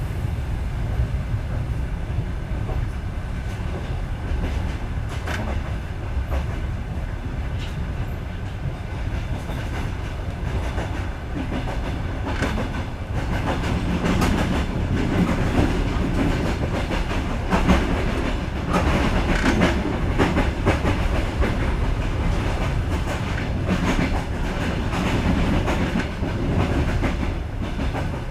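Overnight sleeper train running, heard from on board: a steady low rumble of the carriage with short clicks and knocks of the wheels over the track. It grows louder about halfway through.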